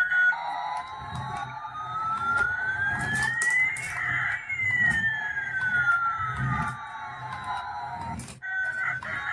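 A siren-like electronic tone rising slowly for about four seconds, then falling back over about four more, above a low rhythmic beat; it cuts off near the end.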